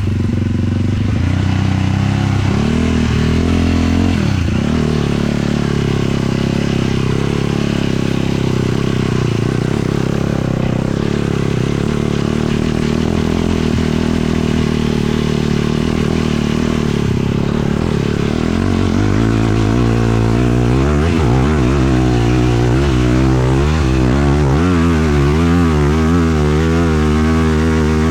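Sport quad's 450 single-cylinder four-stroke engine running under way. The revs hold fairly steady at first, then rise and fall over and over in quick swings through the last third.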